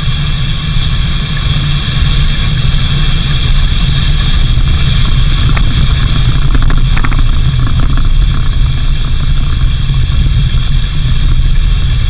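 A vehicle on the move: a loud, steady low rumble, with a steady higher hiss above it and a few faint ticks about six and seven seconds in.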